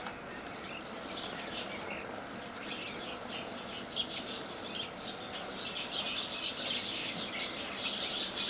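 Small birds chirping, a dense run of short high calls that grows busier and louder in the last few seconds.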